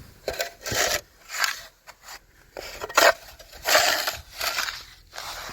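Snow shovel clearing snow off a car: about half a dozen short scraping, crunching strokes as snow is pushed and broken off.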